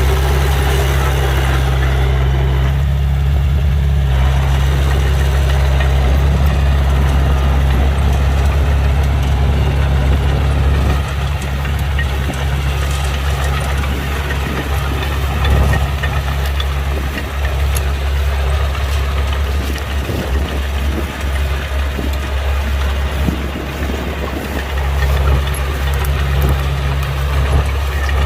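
Heavy diesel engines of earthmoving machinery running steadily at a low, even hum, with scattered light knocks in the second half.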